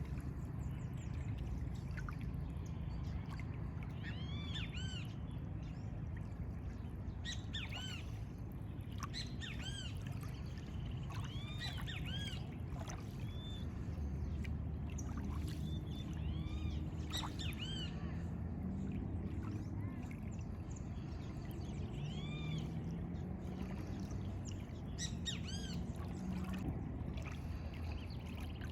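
Birds calling outdoors with many short, arched chirps, repeated in loose bursts, over a steady low rumble.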